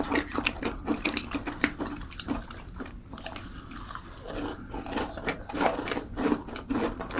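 Close-miked eating sounds: a person biting and chewing macarons, with many small crunching clicks and wet mouth noises.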